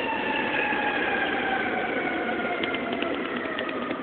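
A fire apparatus siren, its tones sliding slowly down in pitch as the rig pulls away, with the engine running underneath and a few faint clicks near the end.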